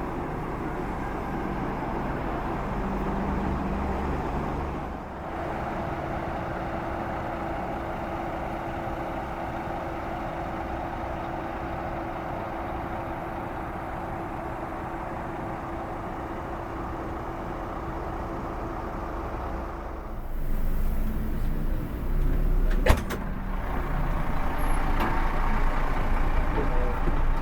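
Bus on the move: steady engine and road rumble, with a steady hum through the middle and one sharp click about 23 seconds in.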